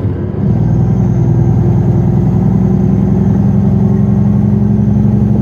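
Diesel engine of a Western Star logging truck running under steady load. About half a second in it gets louder, then holds an even pitch.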